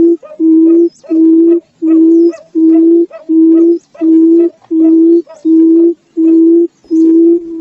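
Barred buttonquail calling: a long, even series of low hooting notes on one pitch, about one and a half a second.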